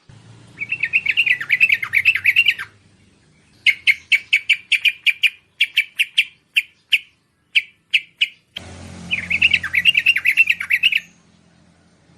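Bulbul (merbah) song. A burbling, warbled phrase is followed by a run of short clear notes that space out toward the end, then another burbling phrase.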